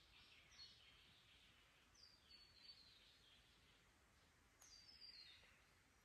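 Faint birdsong: a small bird gives three short falling phrases, about half a second in, at two seconds and near five seconds, over a faint low hiss.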